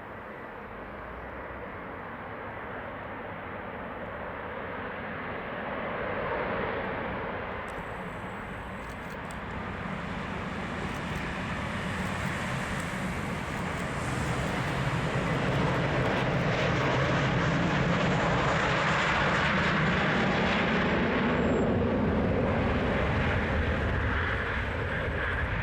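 Airbus A321-231 jet with IAE V2500 turbofan engines at takeoff thrust on its takeoff run, a broad jet roar that grows steadily louder over the first fifteen seconds or so and then stays loud.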